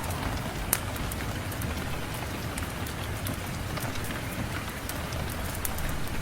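Steady rain with scattered sharp clicks, one loud click under a second in.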